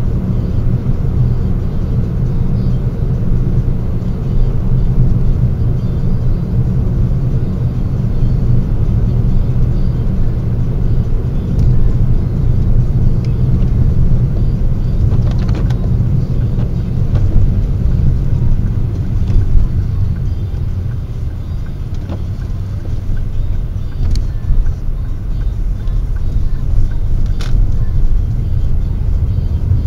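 Steady low rumble of a car's engine and tyres heard inside the cabin while driving, with a few faint ticks now and then.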